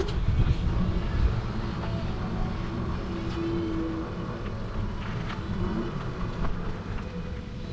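Road traffic noise, a steady low rumble.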